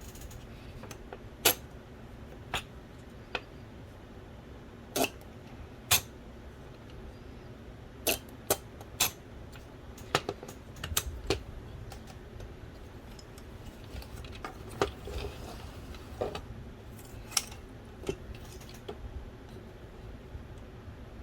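Scattered sharp clicks and taps of small plastic and metal parts of a DVD drive being handled, about a dozen spread out, with a quick run of them about ten seconds in, over a steady low hum.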